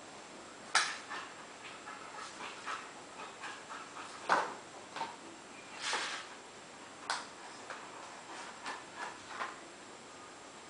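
A young child imitating a dog: short breathy panting puffs and little yips at irregular intervals, the loudest about a second in, just after four seconds and around six seconds.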